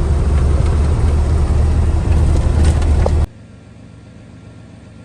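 A truck engine running steadily with a deep rumble, which cuts off suddenly about three seconds in, leaving a faint steady hum.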